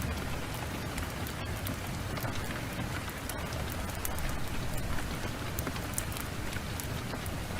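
Heavy rain pouring steadily, with frequent sharp crackles and pops from a burning wood fire scattered through it.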